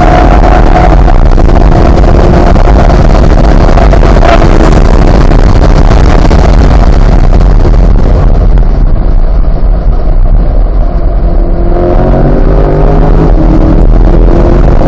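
Chevrolet Corvette C8's 6.2-litre V8 running hard on track over heavy wind and road noise. The engine eases off about two-thirds of the way through, then pulls again with rising pitch near the end.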